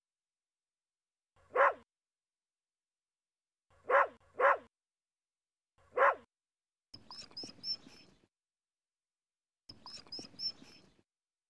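A small dog barks four short times: once, a quick double, then once more. After that come two fainter stretches of rustling noise with quick high chirps.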